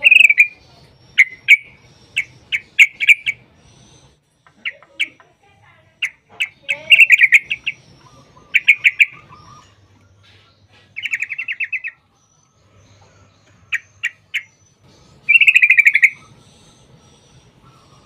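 Yellow-vented bulbul (trucuk) calling in short, bubbly chattering bursts, with two longer rapid rolling phrases near the middle and toward the end.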